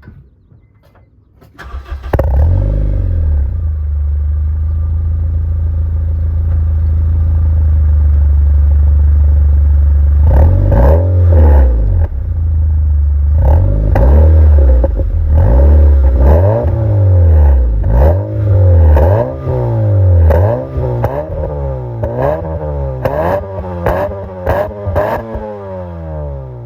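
Honda Civic FD1 with a Kakimoto-kai aftermarket muffler: the engine starts about two seconds in and idles steadily with a deep exhaust drone. From about ten seconds in it is revved in repeated throttle blips, each rising and falling back to idle, coming quicker and closer together toward the end.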